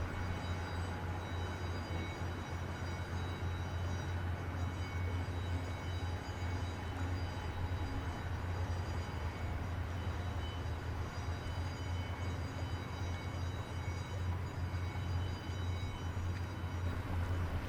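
The Great Lakes freighter John G. Munson's diesel engines giving off a steady low hum.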